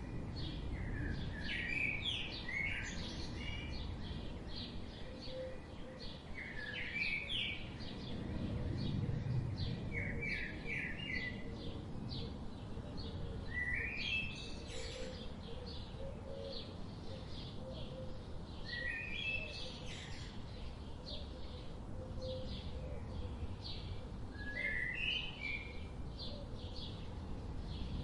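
Songbirds singing: one bird repeats a short phrase of a few notes about every four to five seconds, while others chirp briefly and high. A steady low rushing, typical of a flowing river, runs underneath.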